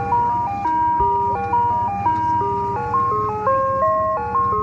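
Ice cream truck's music box playing its jingle: a simple, tinny electronic melody of clean held notes stepping up and down, with a steady low hum beneath.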